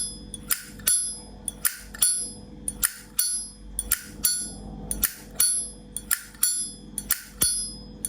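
Vintage Zippo lighter, dated to about 1970, with its hinged lid flicked open and snapped shut over and over: sharp metallic clicks about two to three a second, each with a bright, high ring. The lighter's 'sound' is called quite good, the ring of a sound hinge and cam.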